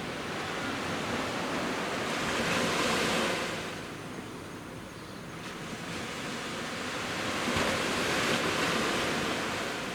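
Sea waves breaking and washing up a beach, the surf swelling and easing twice, with a peak about three seconds in and another near eight seconds.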